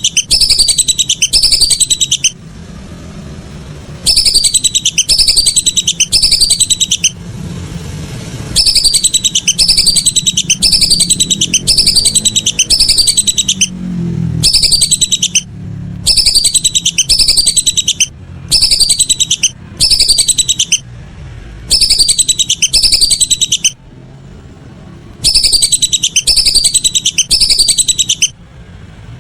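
Whistling ducks (belibis) calling: quick runs of high, downward-sliding whistles in loud bursts of about two seconds, with short pauses between them. It is a repeating call track of the kind played to lure the birds.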